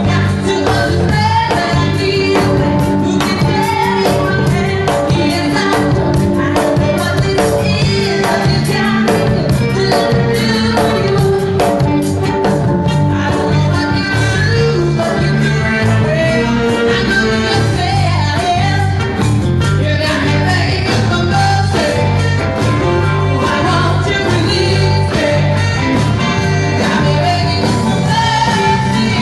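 A band playing a song, with a singer over a steady beat.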